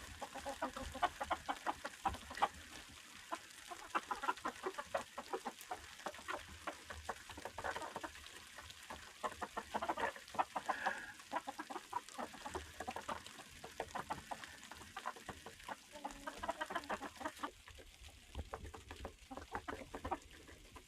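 Silkie chickens clucking, many short clucks close together.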